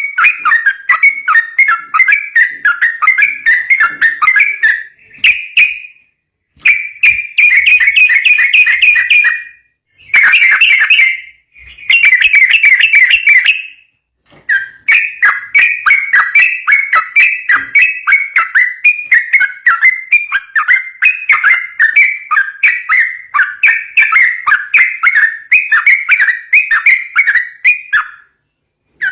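Yellow-vented bulbul singing fast, continuous 'ropel' song: long runs of rapid, repeated whistled notes, broken by a few short pauses.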